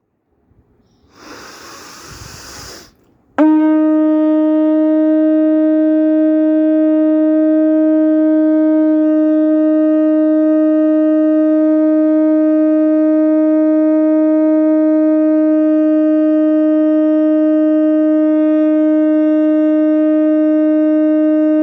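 A 12-inch Hanuman Gada conch shell (shankh) being blown. After a short hiss of air, it sounds suddenly about three seconds in and holds one loud, steady note, rich in overtones, without a break.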